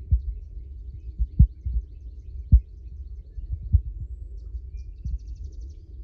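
Wind buffeting the microphone: a steady low rumble broken by irregular thumps from gusts.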